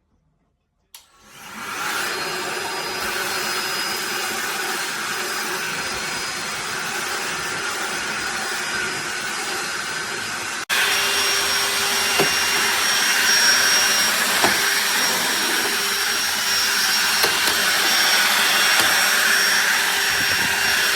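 DeWalt DCV501HB 20V cordless handheld vacuum switching on with a click about a second in, spinning up over a second to a steady whir. About halfway through the sound jumps abruptly louder, with a steady high whine and a few sharp ticks.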